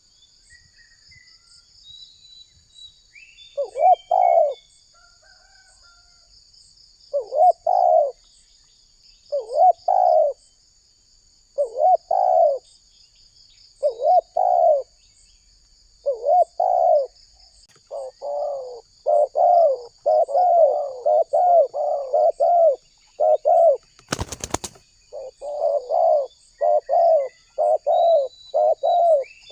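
Spotted dove cooing: repeated phrases about two seconds apart that quicken in the second half into a rapid run of coos. A steady high-pitched buzz runs behind, and there is a single sharp click about twenty-four seconds in.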